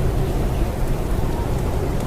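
Blizzard wind, a steady deep rushing rumble.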